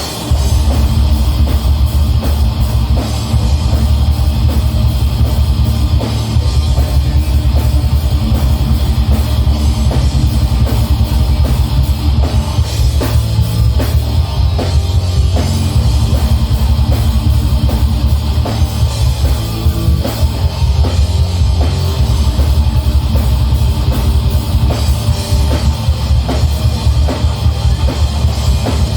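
Death metal band playing loud: distorted guitars over fast, dense drumming with a heavy low end.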